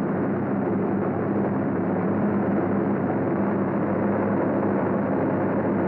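Piston-engine aircraft droning steadily, a low hum over a noisy rush, with a muffled, narrow sound like an old recording.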